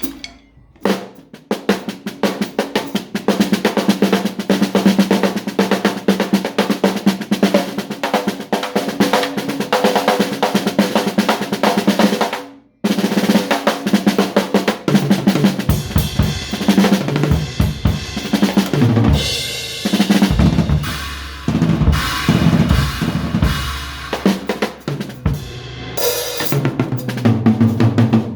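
Drums played fast and dense, with snare rolls, bass drum and cymbals. They stop abruptly about halfway through and start again a second later with heavier, deeper bass-drum hits.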